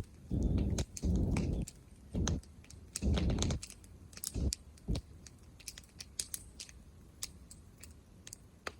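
Wood bonfire crackling, with irregular sharp pops and snaps throughout. Short bursts of low rumbling noise come and go during the first five seconds.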